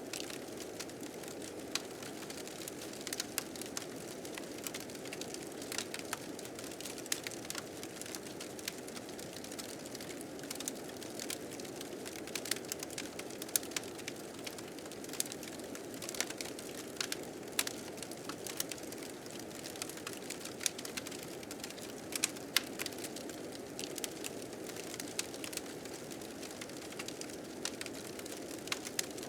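Wood fire crackling with frequent sharp pops over a steady rushing of blizzard wind.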